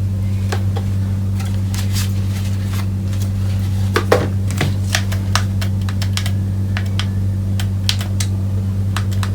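Irregular sharp clicks and taps, a few a second with gaps, over a steady low electrical hum.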